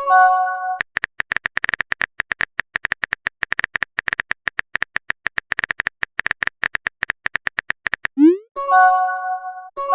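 Chat-app sound effects: a rapid run of keyboard typing taps, several a second, for about seven seconds. Near the end a short rising pop is followed by a brief chiming notification chord. The same chime also sounds at the very start.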